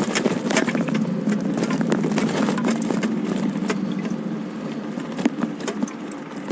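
Bicycle rattling as it is ridden, with dense quick clicks and jingles over a steady low rumble of riding noise.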